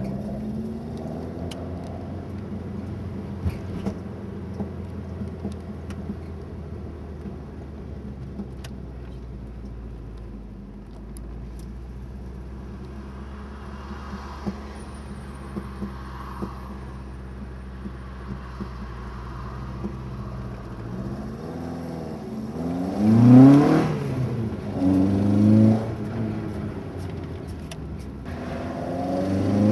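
1.9-litre 8-valve VW GTI four-cylinder breathing through twin Weber 40 carburettors, running steadily at low revs for most of the stretch, then revving up hard and dropping back twice, and climbing again near the end.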